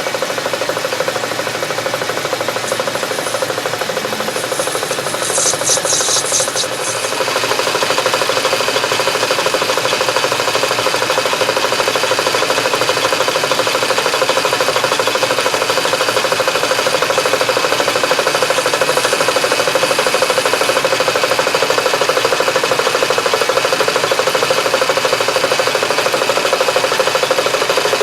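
Metal lathe running steadily while turning brass bar stock, a constant motor and gear hum with a higher whine. About five seconds in, a short burst of high scraping from the tool cutting the brass.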